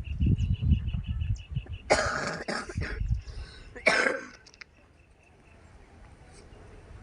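A person coughing twice: a longer cough about two seconds in and a short one about four seconds in. Before the coughs there is a low rumble and a fast, high, repeating chirp.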